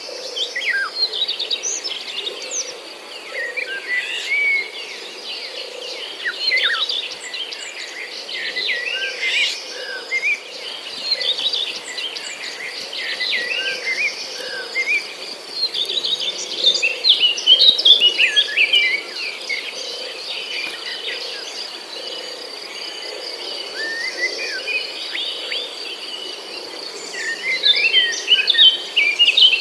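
Small birds chirping and twittering in quick, busy runs of short notes, over a steady high insect drone.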